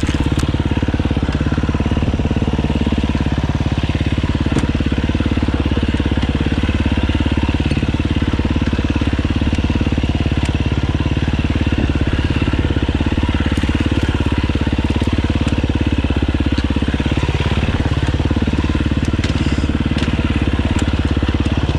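Dirt bike engine running steadily under way on a trail, with a few sharp clicks scattered through.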